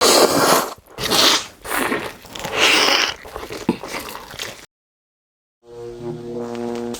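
Loud, crunchy close-miked bites and chewing of food, several in quick succession. After a short silence, music starts near the end.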